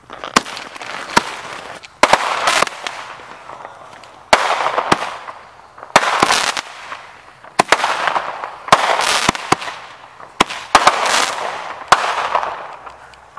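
A consumer fireworks cake firing a rapid series of aerial shots, about a dozen in all. Each is a sharp bang followed by about a second of crackling hiss as the gold crackling stars burn out.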